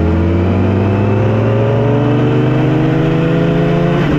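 2008 Yamaha R6's 600cc inline-four engine pulling hard under acceleration, its pitch rising steadily, with a quick upshift about four seconds in, where the pitch drops briefly before it climbs again.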